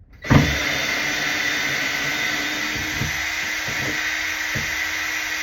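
A power drill running steadily at one speed for about five seconds, starting with a knock, as it drives out a screw holding the shower door frame to the wall.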